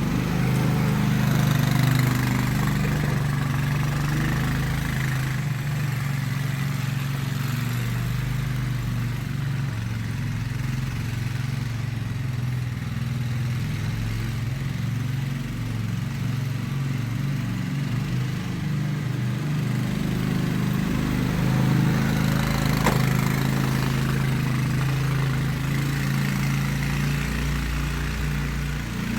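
An engine running steadily at a constant speed, with one brief click about three-quarters of the way through.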